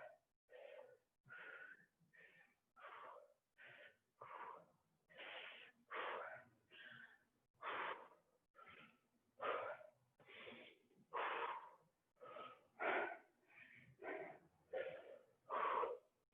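A person breathing hard and fast while exercising, with short in-and-out breaths about twice a second.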